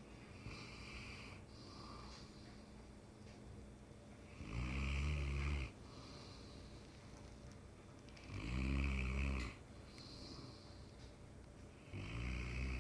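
Sleeping mastiff snoring: loud, low snores about four seconds apart, each lasting about a second, with softer breaths in between.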